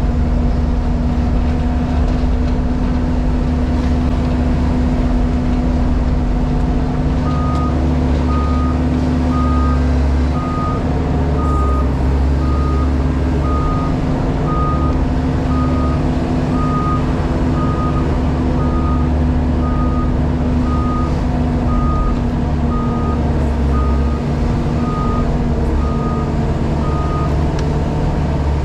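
JCB Pothole Pro's diesel engine running steadily, heard from inside the cab. A reversing alarm beeps about once a second from about seven seconds in until near the end, as the machine backs up.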